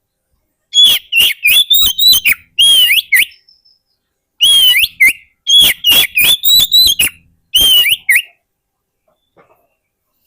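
Oriental magpie-robin singing loudly: two bursts of quick, sharp whistled notes with harsh, scratchy edges, the second burst starting about four and a half seconds in.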